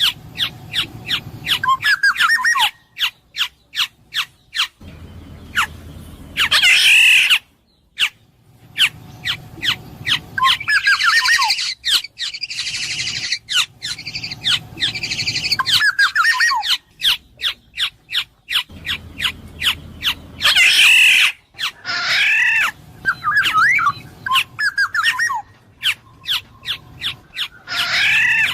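Black-naped oriole calling: gliding, fluty whistled phrases mixed with louder harsh, scratchy calls and rapid runs of sharp clicks.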